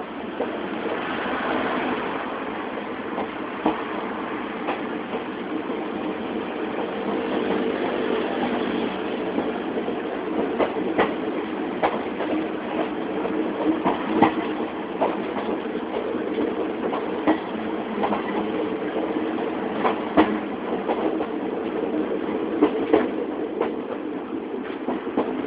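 Passenger train running, heard from inside a carriage: a steady rumble with scattered sharp clicks and knocks.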